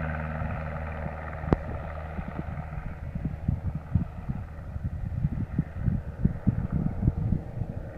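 Cessna light aircraft's engine drone fading away, with a sharp click about a second and a half in, followed by irregular low thumps of wind buffeting the microphone.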